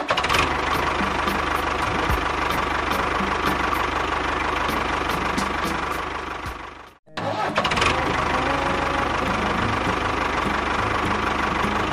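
Small engine running steadily with an even, rapid beat. It fades out around six seconds in, cuts off briefly, then starts again and runs on at the same level.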